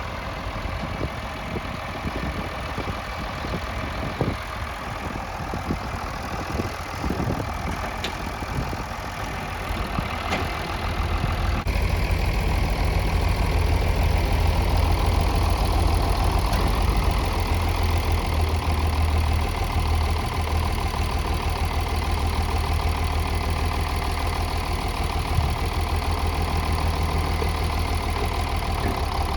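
Farm tractor engine running steadily, growing louder and heavier about twelve seconds in, with a few light knocks in the first several seconds.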